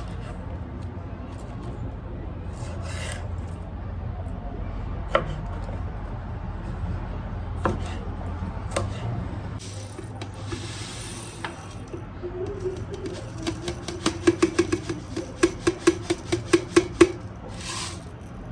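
Household handling sounds over a steady low hum: scattered clicks and rubbing, a short hiss about ten seconds in, then a quick run of sharp taps for a few seconds near the end.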